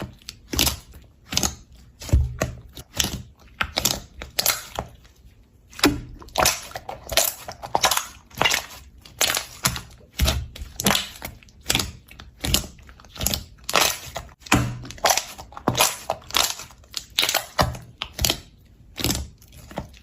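Slime being squeezed and pressed by hand, giving a steady run of short crackling squishes, about two a second.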